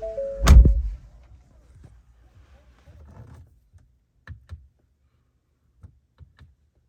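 A car door shutting with one heavy thump about half a second in. A series of electronic chime tones stops just after it. A few faint clicks follow later.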